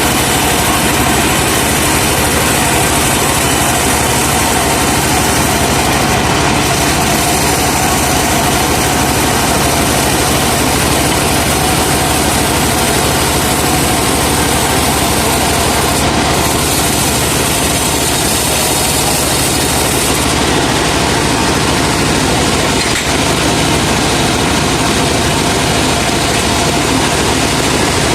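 Saw truck's engine running steadily and loudly at a constant speed, the engine that drives the truck-mounted wood saw.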